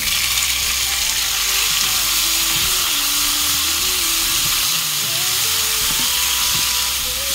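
Raw shrimp dropped into hot oil and garlic in a non-stick frying pan, setting off a loud, steady sizzle that starts suddenly and keeps up as they are stir-fried.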